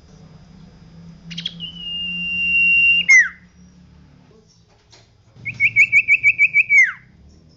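Common iora (cipoh) singing: a long, steady whistle that grows louder and ends in a falling slur, then after a pause a quick run of about nine short repeated notes that also ends in a falling slur.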